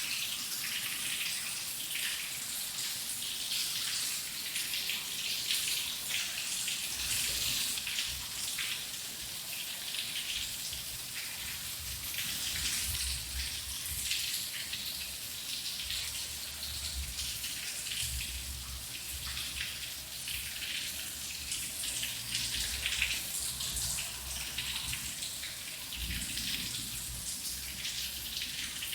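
Rain falling steadily, a constant hiss with many close drops striking. From about seven seconds in a low rumble comes and goes beneath it.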